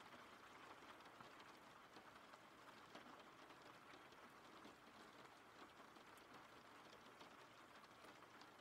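Faint, steady rain: an even hiss dotted with many tiny drop taps.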